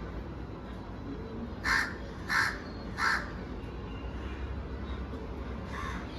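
Crow cawing: three loud harsh caws in quick succession about two seconds in, then a fainter single caw near the end.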